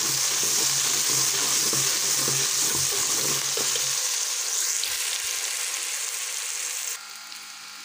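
Onions, cumin and ginger-garlic paste sizzling in hot ghee in a steel pot, with a metal ladle knocking and scraping as it stirs. The sizzle drops sharply quieter near the end.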